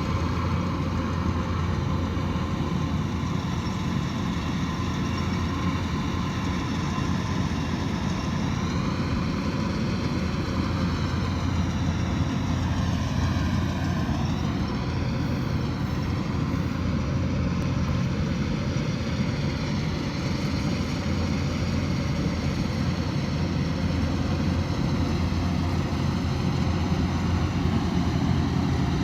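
Kubota DC108X combine harvester's diesel engine and threshing machinery running steadily at work in a rice crop, a continuous low mechanical drone whose higher tones shift and waver for a few seconds about halfway through.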